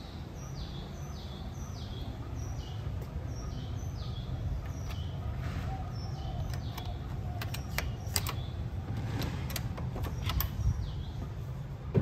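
A bird calls over and over, each note a quick high whistle falling in pitch, about two a second. Over a steady low rumble, a run of sharp clicks and knocks comes in the second half and a loud click at the very end, as the wooden room door is unlocked and pushed open.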